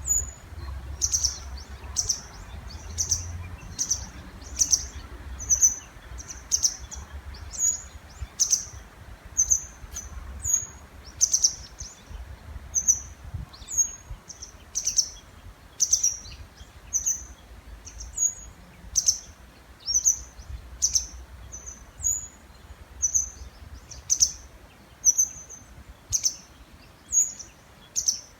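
A small bird calling over and over, a short, high, sharp call about twice a second, with a faint low rumble underneath.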